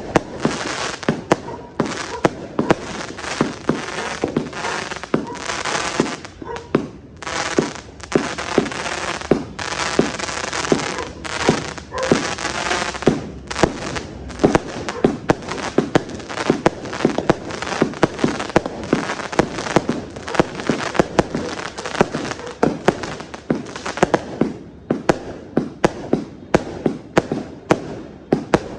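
330-shot fireworks cake firing: a rapid, continuous string of shots and bursts, about two to three a second, with stretches of dense crackling between them.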